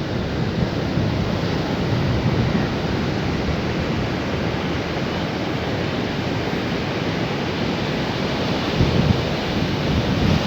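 Sea surf washing onto a beach: a steady rushing noise of waves, swelling a little louder a little before the end, with some wind on the microphone.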